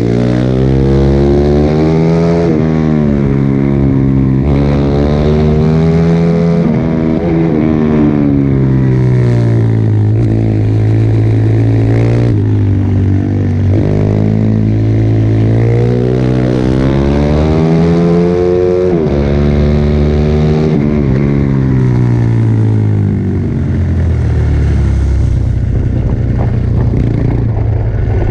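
Pit bike's small single-cylinder four-stroke engine ridden hard. Its pitch climbs again and again under throttle and drops sharply at gear changes and when it eases off for corners.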